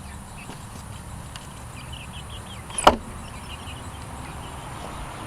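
A single sharp wooden knock about three seconds in, typical of a small wooden coop door being shut or swung against its frame. Faint short high chirps run around it.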